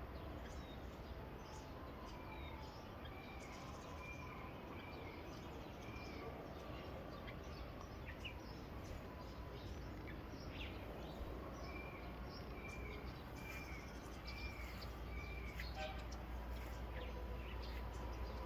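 Birds calling: scattered short chirps and two runs of about five short, arched whistled notes each, one a few seconds in and one past the middle, over a steady low background rumble.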